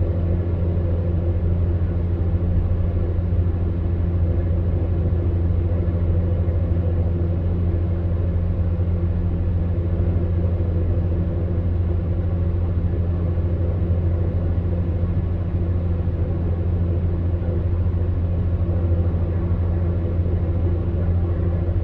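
Electric fan heater running: a steady low hum with a few steady tones above it, over a soft rush of blown air.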